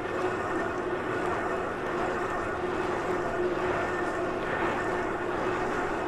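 A bike in motion: a steady drone, a constant hum over an even rushing noise, the odd noise the rider is chasing.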